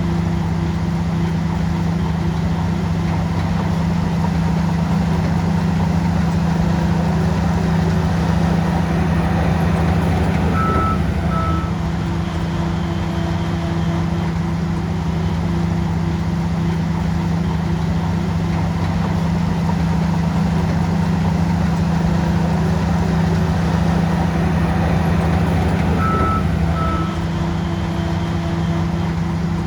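Shantui bulldozer's diesel engine running steadily under load. Its note shifts briefly about eleven seconds in and again near the end. Each time a reversing alarm gives two short, high beeps.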